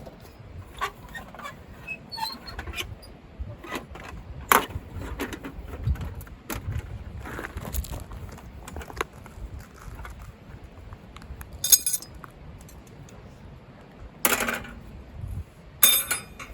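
Objects being handled: scattered small clicks, knocks and light clinks. There are three louder short rustling or scraping bursts, one about twelve seconds in and two near the end.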